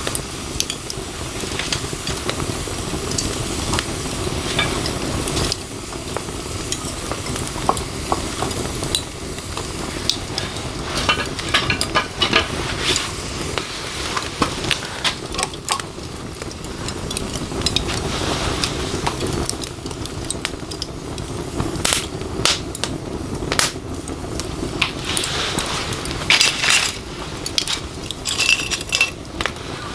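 Wood and charcoal fire crackling and hissing, with scattered sharp clicks and clinks that come more often in the second half.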